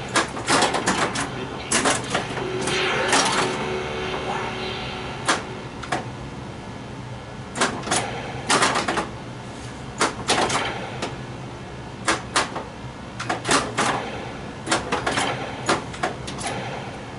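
Bally Flash Gordon pinball machine in play: sharp clacks of flippers, ball strikes and solenoids coming in quick clusters, with the game's electronic sound effects under them.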